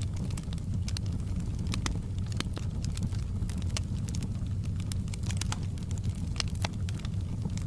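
Campfire burning with a steady low rumble and irregular sharp crackles and pops of burning wood, several a second.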